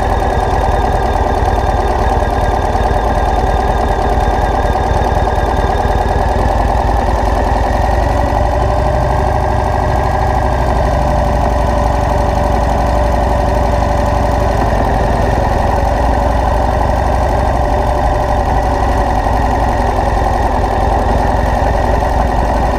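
A vehicle engine running steadily, its pitch dipping slightly about eight seconds in.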